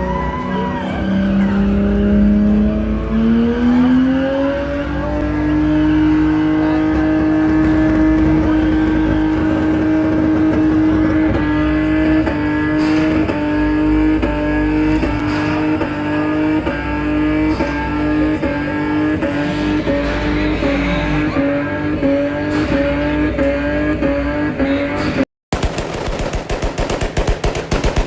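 Car engine revving up over the first few seconds and then held at high revs, its pitch wavering evenly, with tyres squealing as in a smoke-making burnout. Near the end, after a brief break, a fast run of sharp pops.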